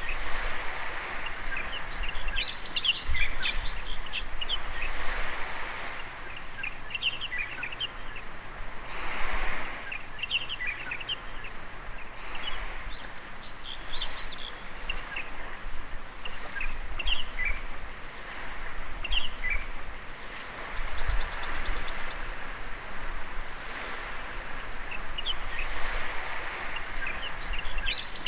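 Small waves washing in at the water's edge, swelling and fading, with birds chirping and calling over them throughout, including a quick run of high repeated notes about two-thirds of the way through.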